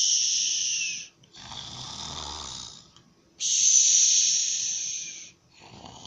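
A person imitating snoring. A rough, lower in-breath snore alternates with a long, loud, hissing out-breath, giving two full snore cycles.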